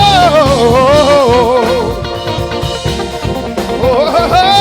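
Church praise band playing an upbeat gospel groove with drum kit. A singer's wordless run with heavy vibrato slides downward over the first two seconds and comes in again near the end.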